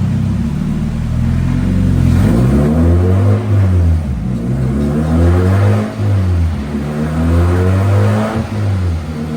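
Mazda Miata's four-cylinder engine accelerating on a chassis dyno for a power pull. Its pitch climbs and drops back sharply about three times, like upshifts through the gears.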